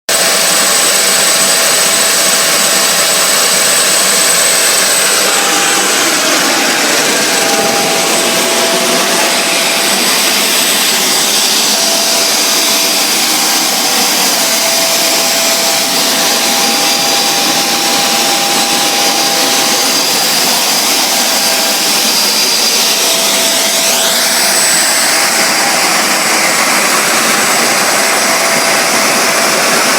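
Home-built turbocharger-based turboshaft engine with a free power turbine, running at about quarter throttle and turning a 20 by 10 inch propeller: a loud, steady jet rush with several high whining tones. Late on, one whine rises in pitch.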